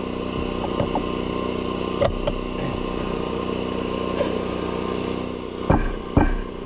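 An engine running steadily at an even speed, with a few sharp metal knocks near the end.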